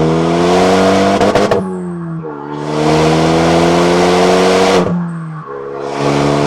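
Renault Mégane III RS's 2.0-litre turbocharged four-cylinder engine under full acceleration, the revs climbing steadily in each gear. Two upshifts of the six-speed manual, about 1.5 s in and about 5 s in, each a short drop in pitch and loudness before the engine pulls up again.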